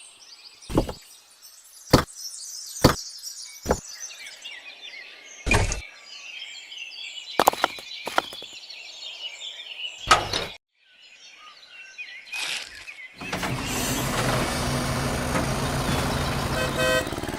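Birds chirping, with a series of sharp knocks about a second apart. Around thirteen seconds in, a steady, dense machine-like running sound starts.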